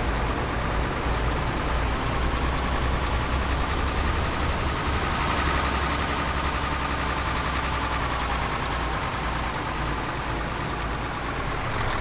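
Tanker truck engine running with a steady low rumble and a thin whine that holds nearly one pitch, easing off slightly near the end.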